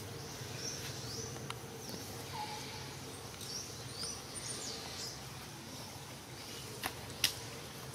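Outdoor ambience: small birds chirping, a run of short high calls that rise and then level off, over a steady low hum. Two sharp clicks close together near the end, the second the loudest sound.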